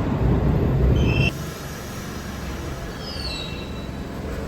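Subway train running on the tracks: a loud low rumble with short, high metallic wheel squeals. The rumble drops off suddenly about a second in, leaving quieter track noise and a falling squeal near the end.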